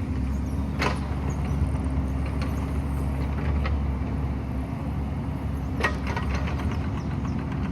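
Excavator's diesel engine running steadily, with a few sharp knocks from the machine at work, the loudest about a second in and another about six seconds in.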